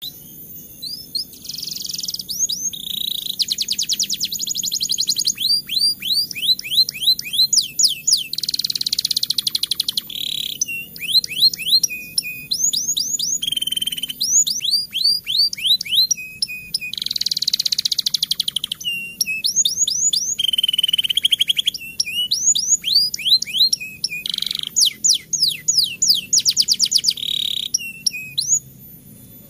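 Domestic canary singing a long rolling song of fast trills, made of rapidly repeated downward-sweeping notes, alternating with buzzy rolls. It stops shortly before the end.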